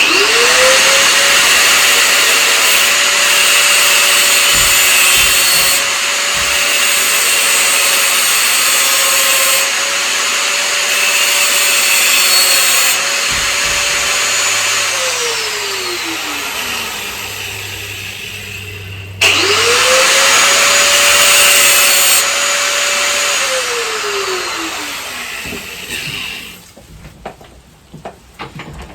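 An electric motor spinning up quickly, running steadily for about fourteen seconds and winding down, then starting again and running for a few seconds before winding down once more.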